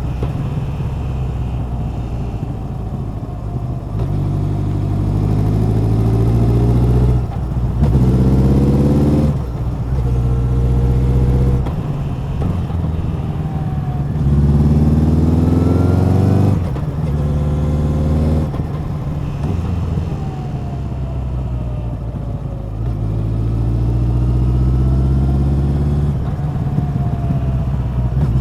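Honda CB1100's air-cooled inline-four exhaust as the bike is ridden, the revs climbing in several pulls, each cut off by a sudden drop in pitch, between steadier stretches.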